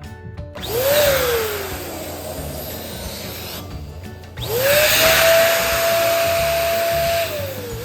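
Electric balloon pump blowing air into a balloon in two runs, a short pause between them; its motor whine rises as it starts and then sinks as it works.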